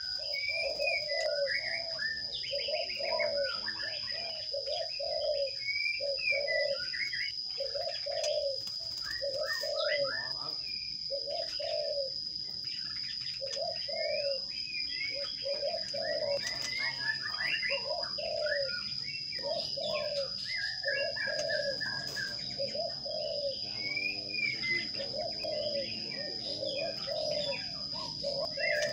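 Birds calling: a long run of low, evenly spaced dove-like coos, a little more than one a second, with scattered high chirps over them and a steady high whine underneath.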